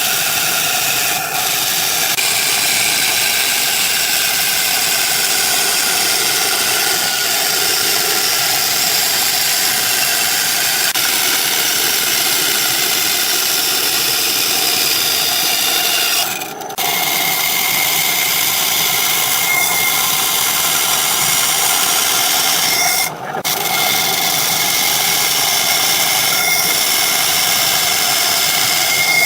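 Electric power tool working wood, its motor running steadily under load. It drops off briefly twice, a little past halfway and again about three quarters in.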